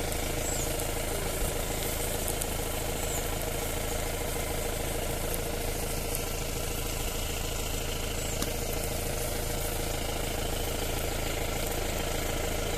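Steady, unchanging mechanical drone with a low hum, like an engine idling.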